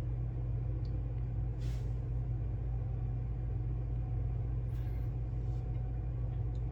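Steady low hum with an even level throughout, with a few faint, brief soft sounds over it.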